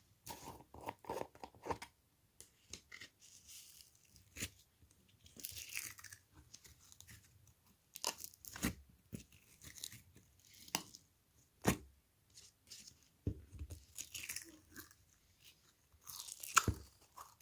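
Irregular crunching and crackling close to the microphone, like something crisp being chewed or torn, with sharp snaps about twelve seconds in and near the end.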